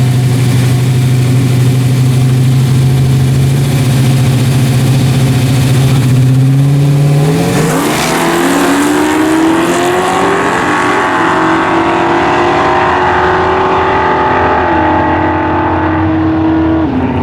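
Chevy S10 race truck's freshly rebuilt engine with a new roller cam, holding steady revs for about seven seconds, then accelerating hard with the revs climbing in steps. The pitch drops about three-quarters of the way through, holds lower, and falls again near the end.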